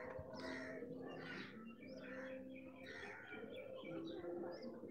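Faint bird calls from several birds, scattered short calls with a few small chirps near the end, over a faint steady hum.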